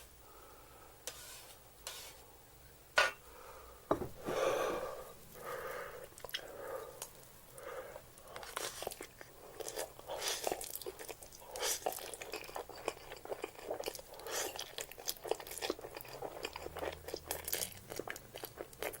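Close-up eating sounds of spicy instant noodles being chewed, with a dense run of quick mouth clicks through the second half.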